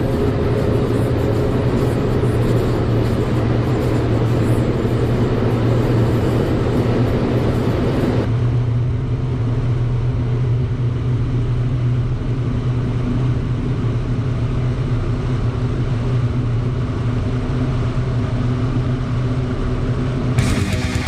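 Car driving, its engine and road noise a loud, steady drone. The sound changes abruptly about eight seconds in, and guitar music comes in at the very end.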